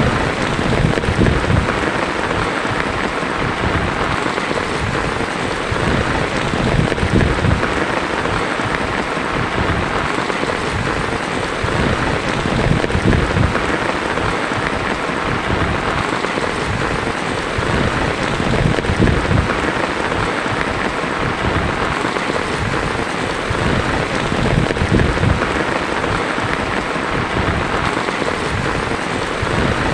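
Heavy rain drumming steadily on a tin roof, with low uneven rumbling of distant thunder underneath.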